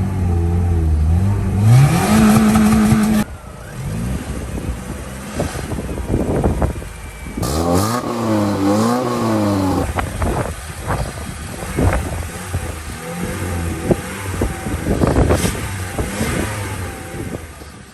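Car engine revved by pumping the accelerator: it climbs and holds at high revs, drops away suddenly about three seconds in, then rises and falls in repeated revs and short blips. It is a cold engine being kept above about 2000 rpm so that it won't stall.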